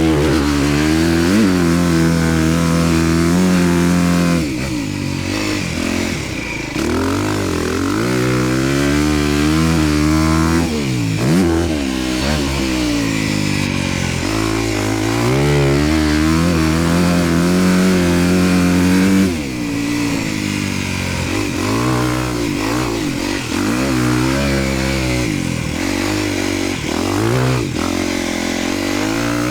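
Honda motocross bike's engine under hard riding, revving up and backing off again and again, with a sharp drop in pitch each time the throttle is shut.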